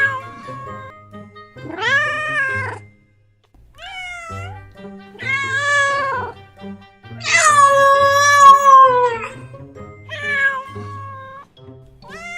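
Domestic cat meowing over and over: about five drawn-out meows and one short one, the longest and loudest about seven seconds in, sliding down in pitch as it ends. Soft background music plays underneath.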